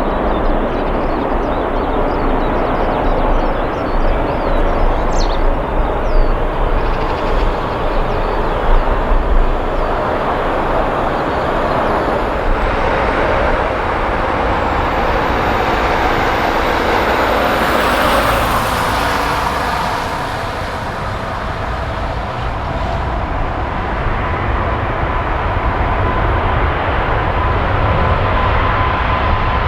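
Jet airliner engine noise: a loud, steady rush. A steady whining tone comes in during the last third.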